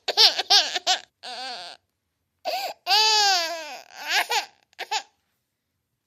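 Cartoon baby-girl voice sound effect: a quick string of short high giggles, a breathy huff, then a long whiny cry that falls in pitch, and a few more short giggly sounds.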